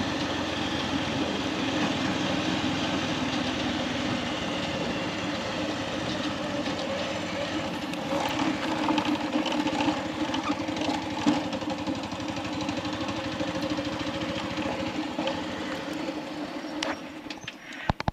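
Motorcycle engine running under way, a steady low hum with a rapid regular firing patter, mixed with wind and road noise. The sound cuts off abruptly near the end.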